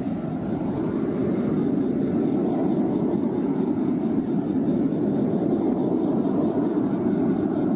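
Aircraft flying over, a steady engine drone that builds over the first couple of seconds and then holds.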